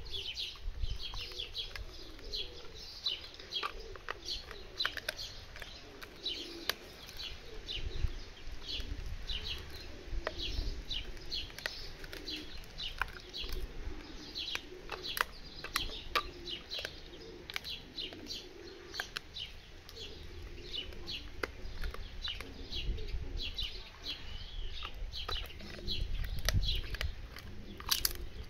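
Small birds chirping continuously in quick, repeated short calls, over the occasional crunch and click of a bull terrier gnawing a dried beef trachea chew.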